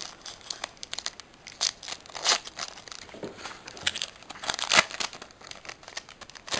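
Foil booster pack wrapper being torn open and crinkled by hand: irregular crackling, with louder crackles about two and a half seconds and nearly five seconds in.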